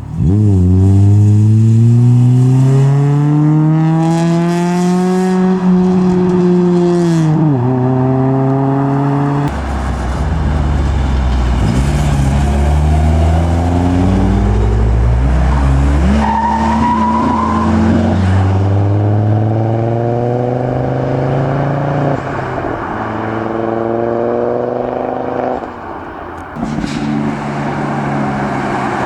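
Tuned cars accelerating hard away one after another, each engine climbing in pitch, then dropping sharply at a gear change before climbing again.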